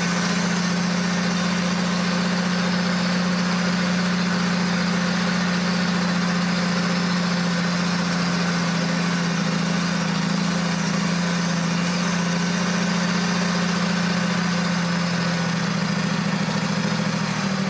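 Heavy diesel engine running steadily at a low, even speed, with a slight change in its note near the end.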